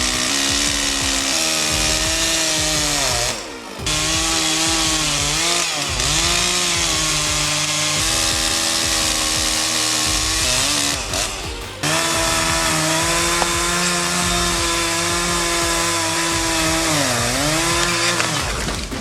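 Chainsaw running at high revs, its pitch repeatedly sagging and recovering as it bogs in the cut, with brief drops around 4 seconds and 11 seconds in.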